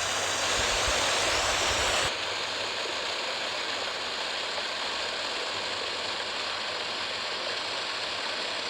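Waterfall rushing steadily. About two seconds in the sound switches abruptly to a slightly quieter, less hissy rush.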